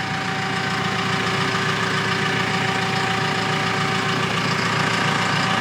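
Forklift engine running steadily while the forklift is worked, with a steady high tone on top, growing slightly louder.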